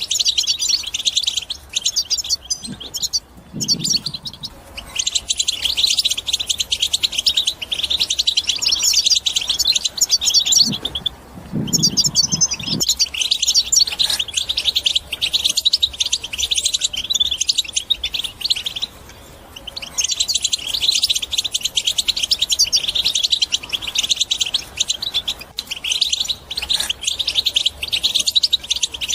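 European goldfinch singing its fast, chattering 'batbata' song, a dense run of high twittering notes broken by a few short pauses.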